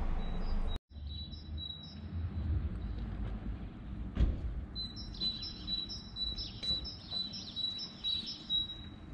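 Small birds chirping in short, quickly repeated high notes, busiest in the second half, over a low outdoor rumble. The sound cuts out for a moment about a second in, and a single knock comes about four seconds in.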